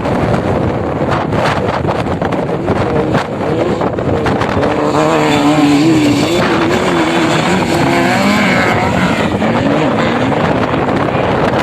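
Off-road vehicle engine running under load, its revs rising and falling as it is ridden, with wind buffeting the microphone.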